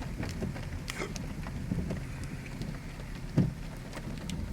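Rain falling, with scattered raindrop clicks over the low steady hum of a vehicle; one sharper knock about three and a half seconds in.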